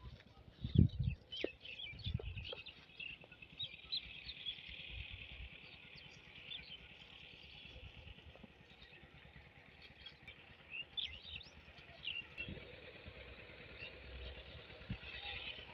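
Wild birds chirping, many short high calls scattered through, over a steady high background chorus. A few low thuds come in the first couple of seconds, and a faint low hum joins later.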